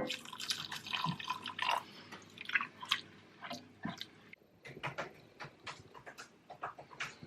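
Chicken stock being added bit by bit to a simmering curry paste in a pan and stirred in: wet dripping and splashing with irregular small clicks of the stirring utensil.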